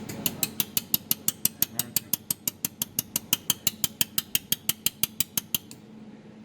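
200 W pulsed jewelry laser welder firing a rapid, even train of sharp clicks, about six a second, one click per laser pulse at a 5–6 pulses-per-second frequency setting. The clicking stops shortly before the end.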